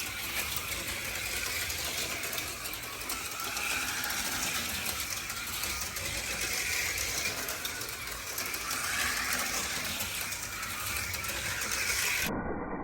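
HO-scale slot cars running on the track: a steady whir of small electric motors and the cars on the rails, swelling and easing as they speed up and slow down. Near the end the sound changes abruptly.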